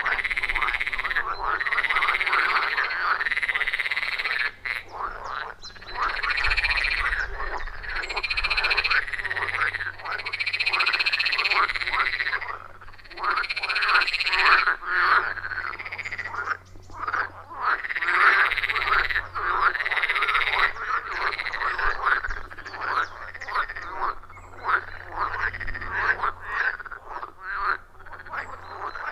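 A loud chorus of many frogs croaking over one another at a pond: a dense run of rapid, repeated calls that thins out briefly now and then.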